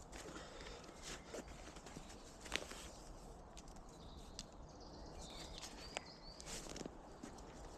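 Faint footsteps and rustling on the woodland floor, with scattered small snaps and a sharper one between two and three seconds in. A few short high chirps come around five seconds in.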